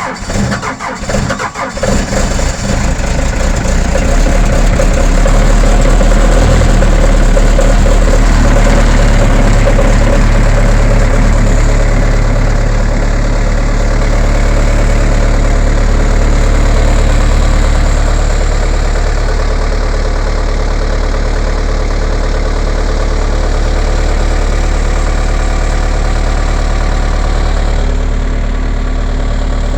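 A cold engine sputtering as it catches for about two seconds, then running up and settling into a steady idle.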